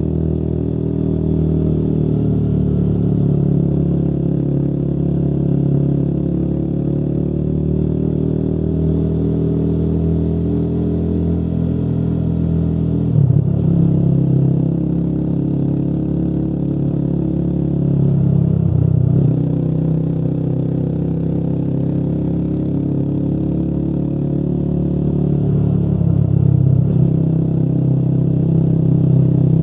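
Motorcycle engine running under way, its pitch rising and falling with the throttle, with three brief breaks where the note drops and picks up again.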